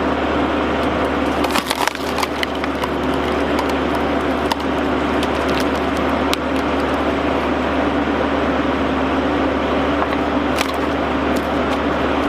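Log splitter at work: an engine running steadily while logs are forced through a four-way wedge, with wood cracking and splintering in sharp cracks around two seconds in, again at about four and a half seconds, and near the end.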